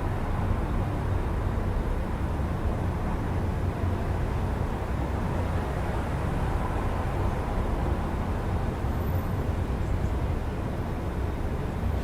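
Steady low rumble of city traffic heard through an open window, with no single vehicle standing out.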